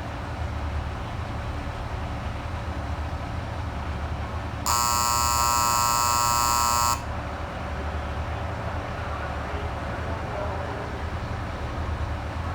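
KiHa 85 diesel railcar's engines idling with a steady low rumble. About four and a half seconds in, a loud, shrill electronic buzzer tone sounds steadily for about two seconds and cuts off abruptly, the signal given just before the train departs.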